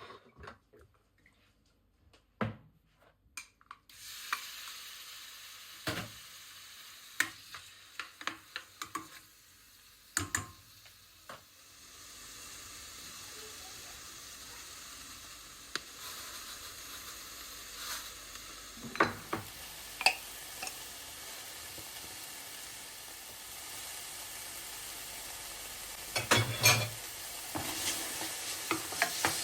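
Food sizzling in hot oil in a pan, starting about four seconds in, with scattered clicks and knocks of a utensil stirring against the pan.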